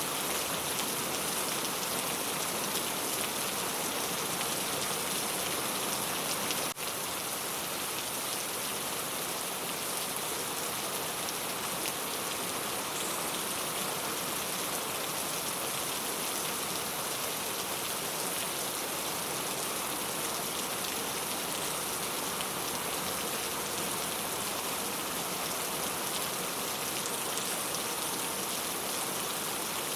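Steady rain falling on a clay-tile roof, a dense even patter of drops, with a momentary dip in level about seven seconds in.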